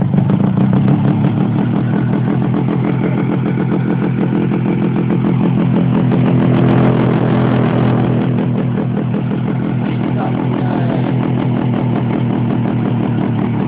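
Honda NSR 125's two-stroke single-cylinder engine idling through an aftermarket Viper exhaust, with an even, rapid exhaust pulse. The engine picks up slightly about six seconds in and settles back down by about nine seconds in.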